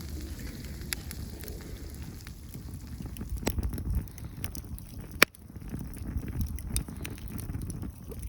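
Wood campfire crackling, with scattered sharp pops, the loudest about five seconds in, over a low rumble.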